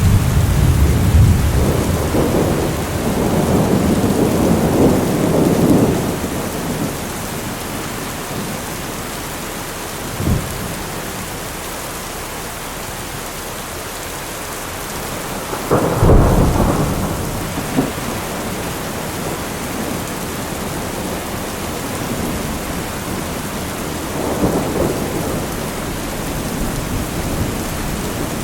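Steady rain with thunder: a long rolling rumble over the first six seconds, a short sharp crack about ten seconds in, a louder clap about sixteen seconds in, and a softer rumble near the end.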